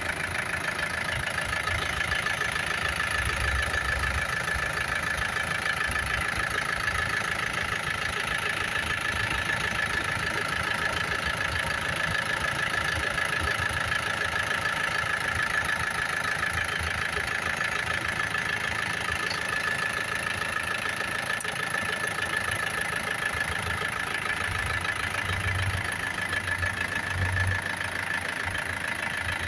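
A 2013 Isuzu Sportivo's diesel engine idling steadily.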